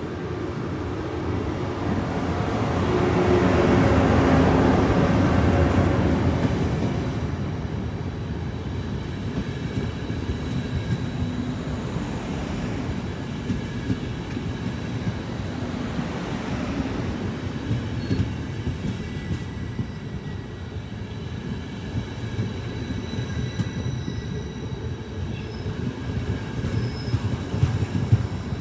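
Trenitalia Intercity train hauled by an E414 electric locomotive running past on the rails. It is loudest as the locomotive goes by about four seconds in, then the coaches' wheels rumble steadily, with a thin high squeal in the second half.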